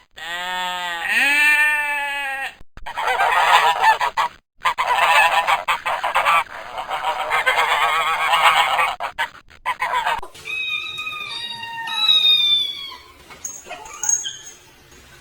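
A flock of domestic waterfowl calling together: many loud, overlapping honks for about seven seconds, after a single drawn-out call in the first couple of seconds. Near the end this gives way to a few sparser, high, falling chirping calls.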